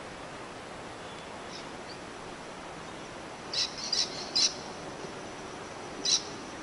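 Short, high bird calls: three in quick succession about three and a half seconds in and one more near the end, over a steady hiss.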